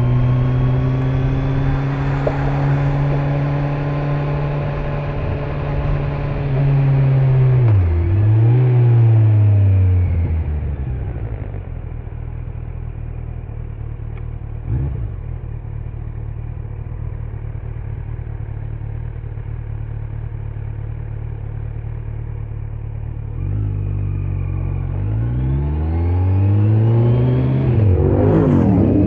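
Kawasaki Z900's inline-four engine on the road with its stock exhaust. It holds steady revs at first, then drops and dips twice as the bike slows through gear changes. It runs at low, quieter revs for a long stretch. About two-thirds of the way in it accelerates again, the pitch climbing in several rising sweeps broken by a short dip at a gear change near the end.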